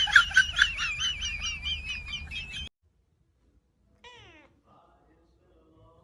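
A high, pulsing, wavering sound cuts off suddenly. After a short silence a cat meows once, a brief call falling in pitch.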